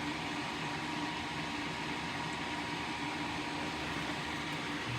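Small electric fan running steadily with an even whooshing hum, drawing away solder smoke.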